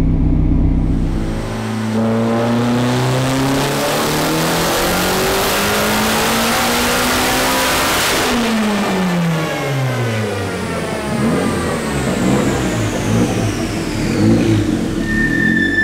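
Turbocharged 1.8T 20-valve four-cylinder in a Mk1 Volkswagen making a full-throttle dyno pull on ethanol fuel. The engine note climbs steadily for about six seconds, then falls away as the throttle is lifted and settles to an uneven idle, while a high whine winds down. A short high tone sounds near the end.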